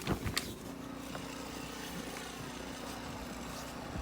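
A few sharp clicks, then a steady engine-like drone holding one low pitch.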